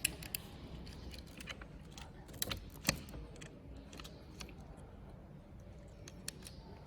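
Light metallic clicks and clinks from small motorcycle handlebar parts and tools being handled, scattered irregularly, with two sharper clicks about two and a half and three seconds in.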